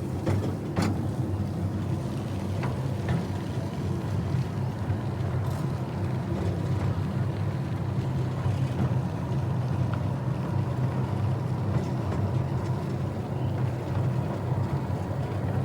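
Small tourist train running along its track, heard from aboard: a steady low rumble with a few clicks and knocks in the first second.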